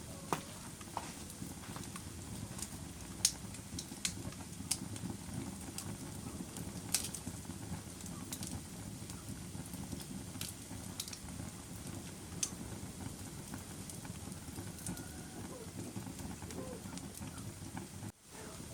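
Wood fire burning in a fireplace: a steady low rumble with irregular sharp crackles and pops. The sound briefly cuts out near the end.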